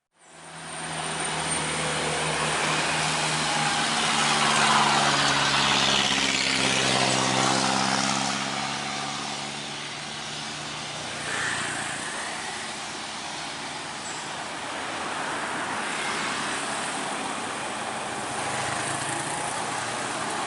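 Truck engine running as it climbs past, growing louder to its closest point about five to seven seconds in, with its pitch shifting as it goes by, then settling to a lower steady road noise.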